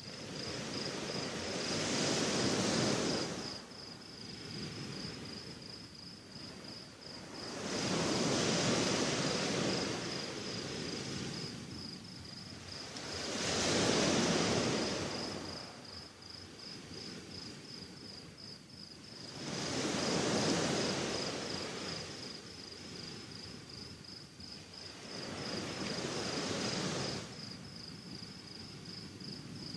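Sea waves washing onto the shore at night, swelling and falling five times about six seconds apart. A cricket chirps steadily behind them in quick, high pulses.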